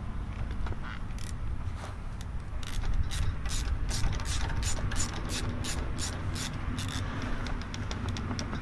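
Socket ratchet wrench clicking as a bolt is turned, at first about three clicks a second, then faster near the end.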